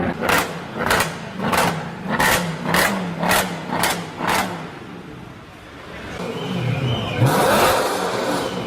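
A car engine revved in a string of short, sharp blips, a little under two a second. After a brief lull, a car's engine rises and rushes loudly past, loudest about three-quarters of the way through.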